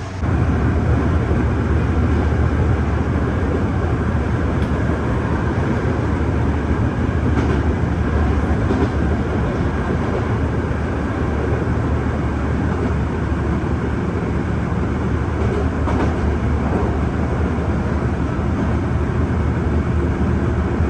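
Chichibu Railway steam-hauled passenger train running along the line, heard as a steady low rumble of the coach on the rails with a few faint clicks.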